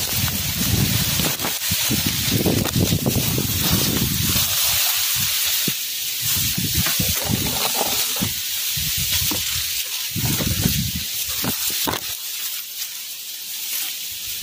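Strong wind gusting against the microphone over a steady high hiss; the gusts ease off near the end.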